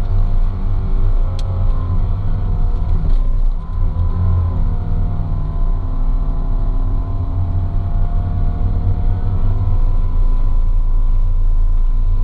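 Nissan Pathfinder's engine heard from inside the cabin, working under load while driving on a sand dune, its pitch rising and falling with the throttle. The revs dip briefly about three and a half seconds in, then build again.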